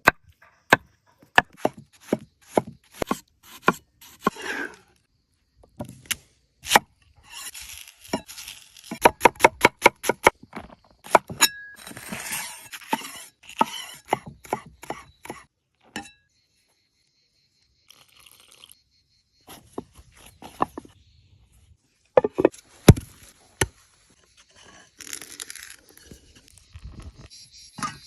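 Camp cooking handling noises: a string of sharp knocks and clinks, with a fast run of about eight knocks about nine seconds in, and stretches of scraping and rustling between them.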